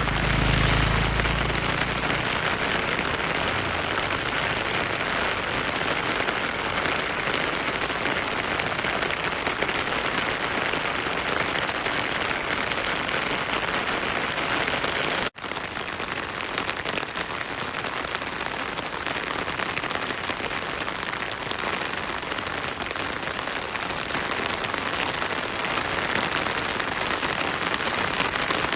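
Heavy rain falling steadily, an even hiss. A low rumble sits under it for the first two seconds, and the sound cuts out for an instant about halfway through.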